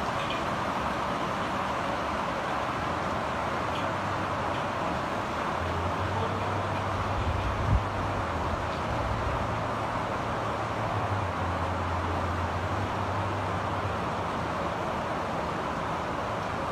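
Steady rain falling, with a low rumble of distant thunder through the middle that swells briefly about eight seconds in.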